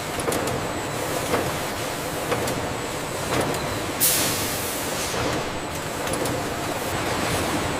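Industrial bakery production-line machinery running steadily, with scattered clicks and knocks. A short, loud hiss comes about four seconds in.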